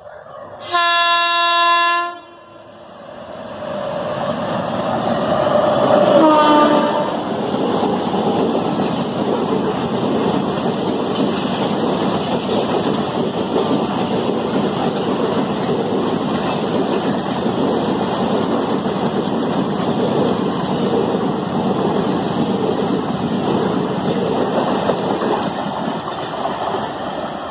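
Electric locomotive horn blasts once, loud and steady for over a second, as a passenger express approaches at speed. A second, shorter horn about six seconds in drops in pitch as the locomotive passes. The coaches then rumble and clatter steadily over the rail joints, easing slightly near the end.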